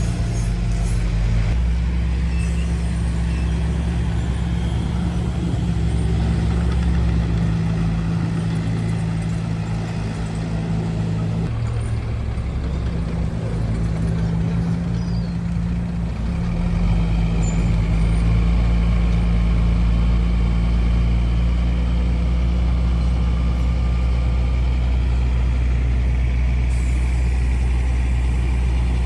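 Heavy construction machine's diesel engine running steadily, its low note easing off for several seconds in the middle, then picking up again.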